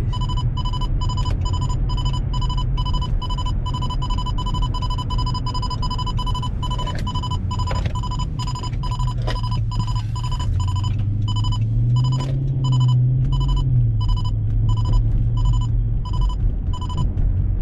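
Radar detector sounding an alert, a rapid run of high electronic beeps at about three a second, heard inside the car's cabin over a low engine and road drone that rises briefly about two-thirds through.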